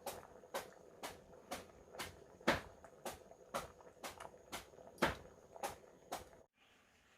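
A steady series of sharp knocks or chops, about two a second, stopping suddenly near the end.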